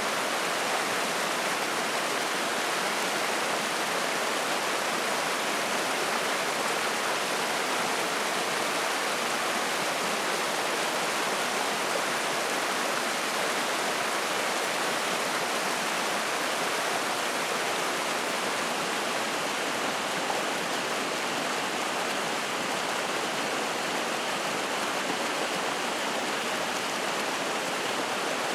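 Spring-fed mountain stream running and splashing, a steady, unbroken rush of water.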